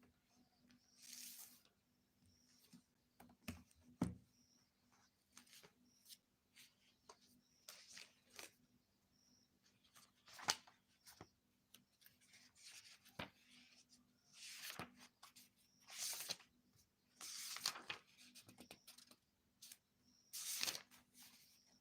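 Faint, irregular rustling and rubbing noises with scattered clicks, over a low steady hum.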